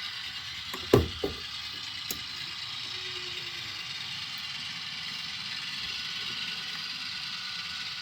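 HO-scale Atlas MP15DC locomotives' LokSound sound decoders playing a steady diesel engine sound through their small speakers. A sharp clack about a second in, a smaller one just after, and a faint tick about two seconds in.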